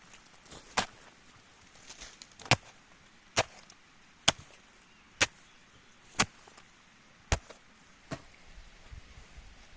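Wood being chopped with a blade: eight sharp strikes at a steady pace of about one a second.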